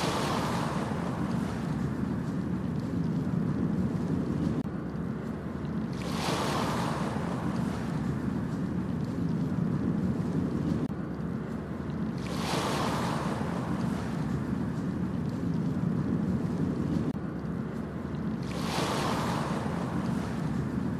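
Ocean waves breaking on a beach about every six seconds, four times: each one a hissing surge that fades away, over a steady low rumble of surf.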